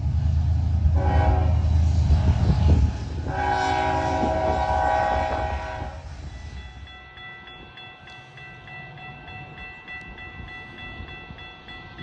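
Diesel freight locomotives rumbling under load and sounding their air horn in two long chord blasts. As the horn stops and the engines fade, a grade-crossing bell rings in a quick steady rhythm.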